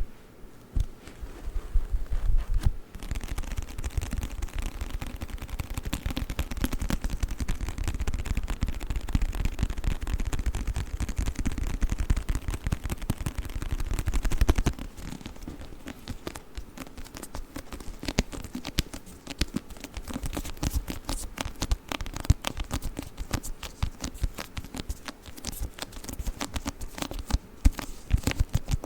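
Rapid, close-miked tapping and scratching on a book, a dense run of fast clicks that turns quieter and finer about halfway through.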